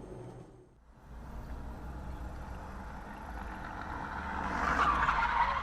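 Car driving, picked up by a dashcam: a steady low road-and-engine rumble after a brief drop-out about a second in, with a rising rush of noise that grows louder toward the end.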